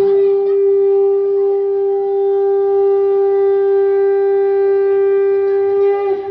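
A conch shell (shankh) blown in one long, steady note that cuts off about six seconds in.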